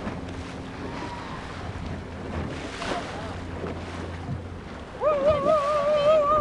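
Boat motor running with a steady low hum under wind and water noise. About five seconds in, a loud, wavering, drawn-out call begins over it.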